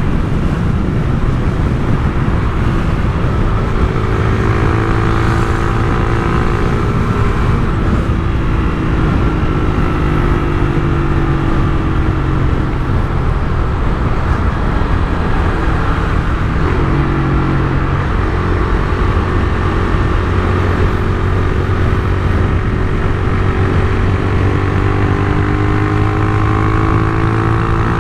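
Honda CG Titan 150's single-cylinder four-stroke engine running through a Turuna aftermarket exhaust, heard while riding. Its pitch drifts gently up and down with small throttle changes.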